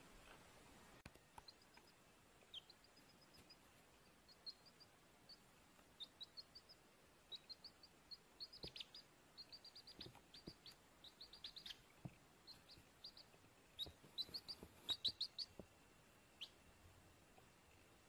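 A small bird chirping: short, high chirps in quick runs of three to five, coming thicker and louder around the middle, over a faint hiss.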